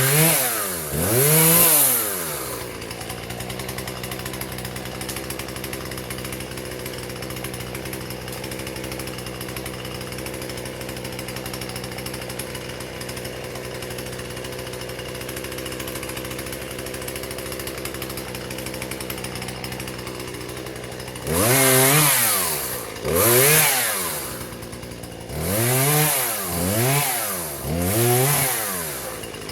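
Husqvarna 120 two-stroke chainsaw idling steadily, revved twice near the start and then in five quick bursts over the last eight seconds, each rising and falling in pitch.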